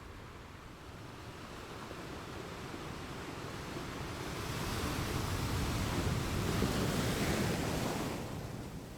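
Ocean waves washing onto a shore: a steady hiss of surf that swells to a crest about two-thirds of the way through and then draws back.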